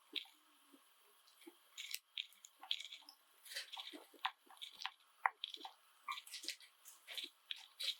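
Pet Java sparrows making an irregular scatter of short, sharp chips and clicks, some rapid, with a few brief higher notes.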